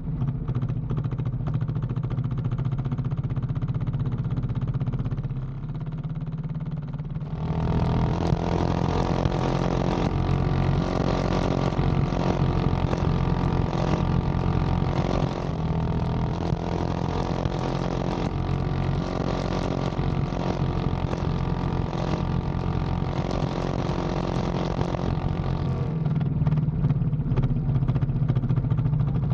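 Engine running steadily under load, growing louder and fuller about seven seconds in.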